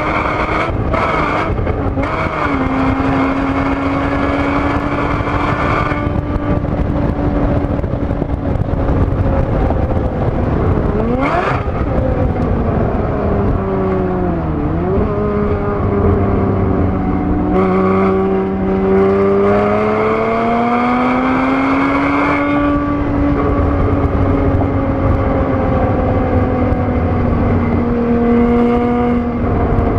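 2013 Porsche Boxster S (981)'s flat-six engine running hard on track, heard from inside the cabin over road and wind noise. It holds high revs at first, its pitch sweeps down under braking and through a downshift from fourth to third with a sharp dip near the middle, then it climbs again as the car accelerates.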